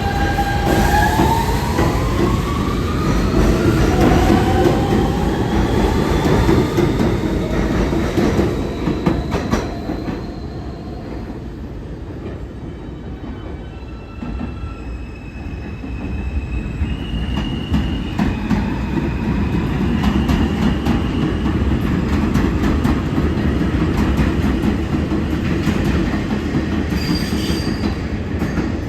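R160 subway train running along the track, its propulsion motors whining upward in pitch over the first several seconds as it accelerates, over a steady rumble of wheels on rail. After a lull about halfway through, the rumble builds again with high, steady wheel squeals that shift pitch in steps.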